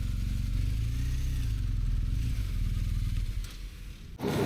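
BMW touring motorcycle's engine idling steadily, then dying away as it is switched off near the end.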